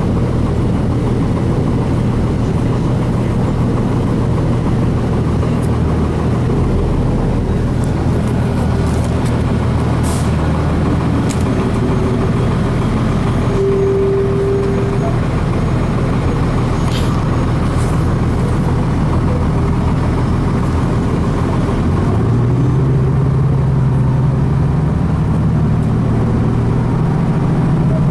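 Cummins ISC diesel engine of a 2002 Blue Bird transit bus, heard from inside the cabin, running at a steady low note; about three-quarters of the way through the engine note rises as it picks up revs. A short tone sounds about halfway, and there are a few brief clicks or rattles.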